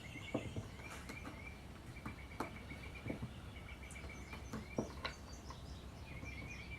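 Faint clicks and scraping of a knife working a turkey leg, with birds chirping in the background over a low steady hum.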